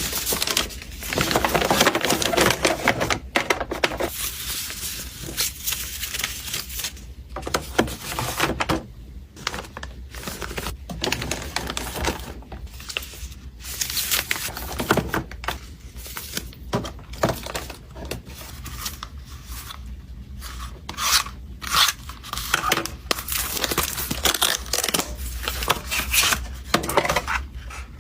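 Packaging and small items being handled: irregular crinkling, tearing and rubbing, with scattered clicks.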